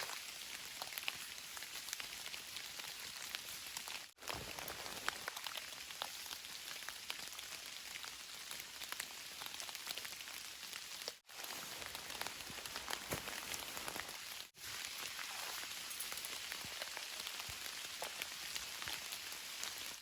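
Steady rain falling, with many separate drops ticking sharply through the hiss. It cuts out briefly three times.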